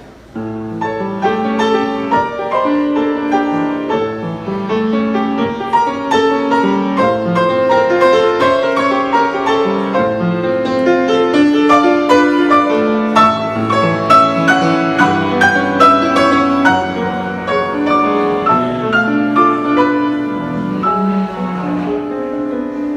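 Piano music: a run of struck notes and chords that goes on without a break.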